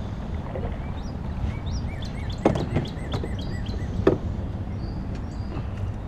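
Small birds chirping, short repeated calls, over a steady low rumble, with two sharp knocks about two and a half and four seconds in.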